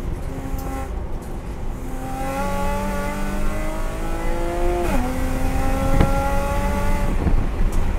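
Race car engine heard from inside the cabin, pulling hard under full acceleration in third gear with its pitch climbing steadily. About five seconds in it upshifts to fourth and the pitch drops suddenly, then climbs again before tapering off near the end.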